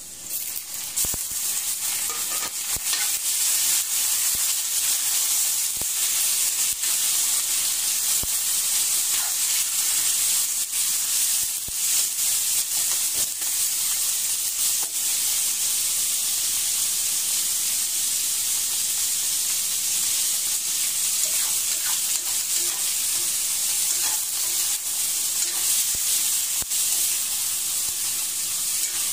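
Raw chicken pieces dropped into hot oil in a wok, the sizzle jumping up about a second in, then a steady frying sizzle with the clinks and scrapes of a spatula stirring against the wok.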